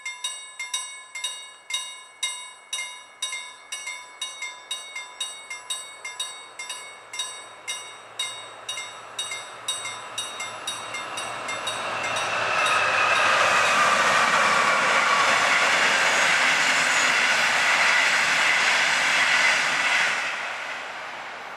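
A level-crossing warning bell rings in even strikes, about two to three a second. Then an express passenger train hauled by a VR Sr1 electric locomotive passes over the crossing. From about twelve seconds in, its wheel and rail noise is loud and steady and covers the bell. It cuts off sharply just after twenty seconds as the last carriage clears, then fades away.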